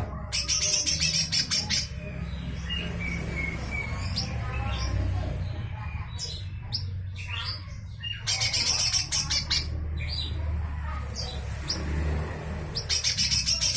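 Cucak hijau mini, a small leafbird, giving harsh, rapid rasping 'besetan' call bursts: three of them, near the start, in the middle and at the end, with softer scattered chirps between.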